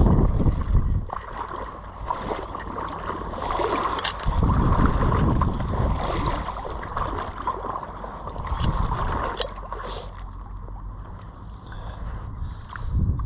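Gusts of wind rumbling on the microphone, coming and going in waves, over a steady splashing, trickling wash of floodwater with scattered small clicks.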